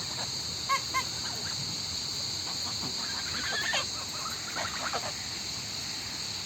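Waterfowl calling: two short honks about a second in, then a run of quick chattering calls in the middle, over a steady high-pitched hiss.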